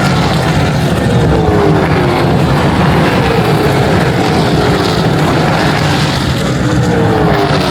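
Race car engines running hard on the circuit, with several cars going by one after another, each engine note dropping in pitch as it passes.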